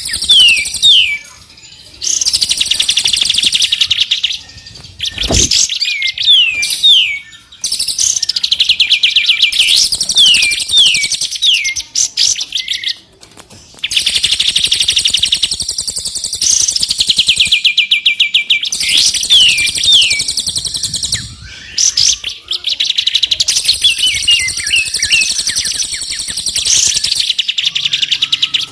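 Songbird tutor recording: a mix of caged songbirds singing in rapid, high-pitched trills broken by short descending whistled notes. The singing comes in phrases of a few seconds with brief pauses between them.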